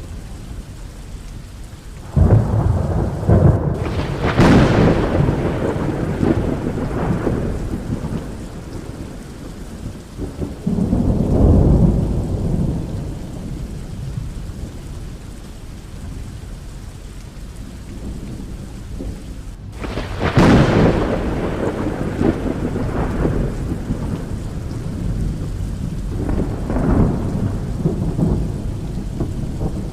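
Thunderstorm: steady rain with repeated thunder, sharp claps breaking in about two seconds and about twenty seconds in, and long rolling rumbles between them.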